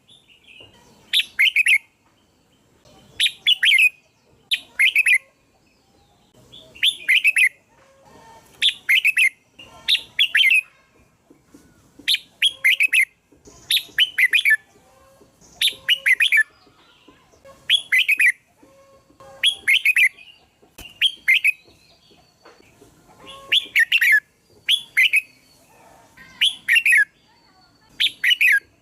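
Red-whiskered bulbul singing: short, bright warbled phrases repeated about every one to two seconds, with brief pauses between them.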